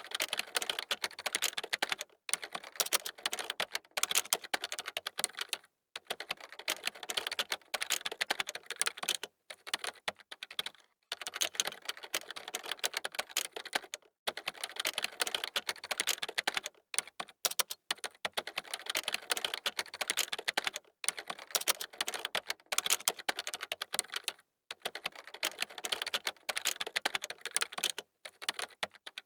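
Fast typing on a computer keyboard: quick runs of key clicks, broken every second or two by brief pauses.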